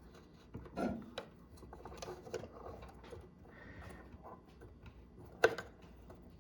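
Small plastic clicks and scraping as a microwave door interlock switch is pried out of its plastic mounting hooks, with one sharp click about five and a half seconds in.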